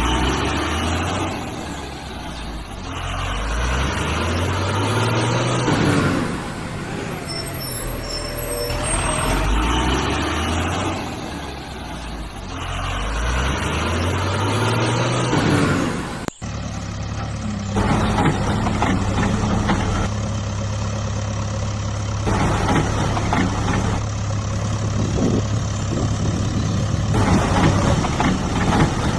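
Heavy truck engine sound revving up again and again in rising sweeps. After an abrupt cut about sixteen seconds in, it runs steadily at idle.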